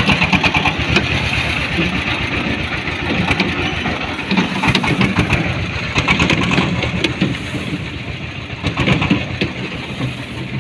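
An engine or motor running steadily, with a rapid clicking rattle throughout.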